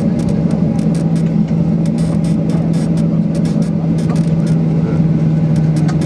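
Steady low cabin hum of a parked Boeing 737-800, with scattered small clicks and knocks throughout.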